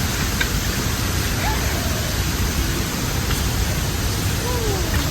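Steady rushing noise with a few faint bird calls over it, one sliding down in pitch near the end.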